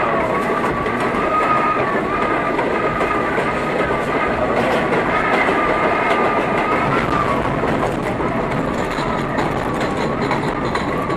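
R32 subway car running along the line, heard from the front of the train: steady running noise with a whine held at one pitch, and rail-joint clicks in places.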